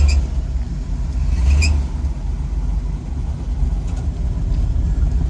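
Low rumble of a truck's engine close by as it moves through, with a short high-pitched squeak at the start and another about a second and a half in.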